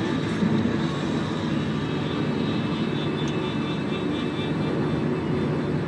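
Steady engine and tyre-on-road noise of a Toyota Camry 2.4 cruising on an expressway, heard as an even rumble with a faint steady hum.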